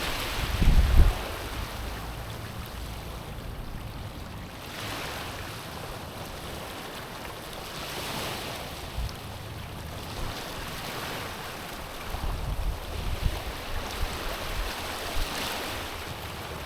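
Small sea waves washing onto a stony shore, each wash swelling and fading every few seconds. Low rumbles come about a second in and again near the end.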